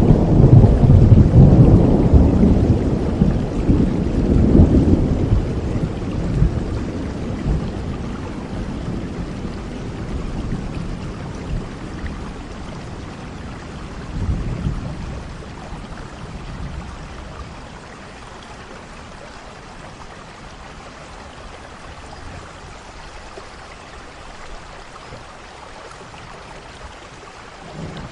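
Steady rain with rolling thunder: a loud, low rumble at the start that slowly fades over several seconds, a smaller rumble about halfway through, then the rain alone.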